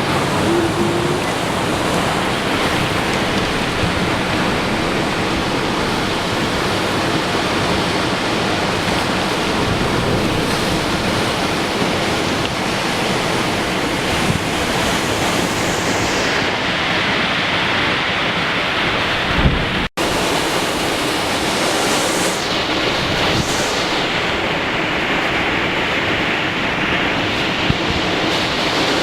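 Typhoon wind blowing hard on the microphone as a dense, steady rush of noise, with a brief dropout about twenty seconds in where the recording cuts.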